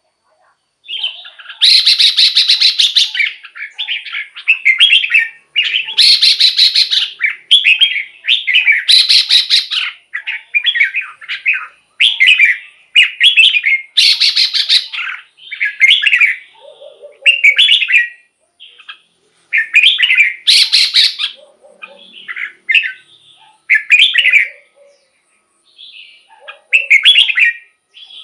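Red-whiskered bulbul singing a run of short, quick warbled phrases with brief gaps between them, several louder, scratchier notes mixed in.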